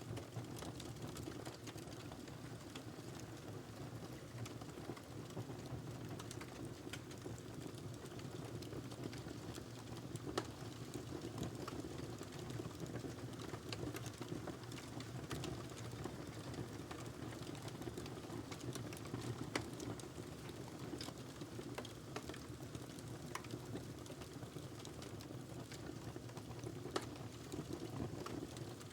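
Wood fire burning in a fireplace: a steady low rush of flames with irregular small crackles and a few sharper pops.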